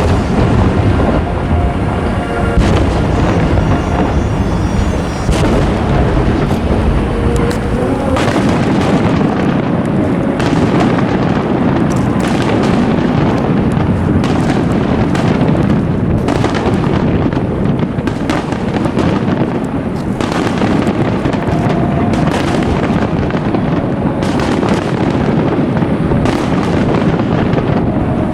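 Aerial fireworks bursting in a dense, rapid barrage, a continuous rumble of booms and crackles. Music plays under it for the first few seconds.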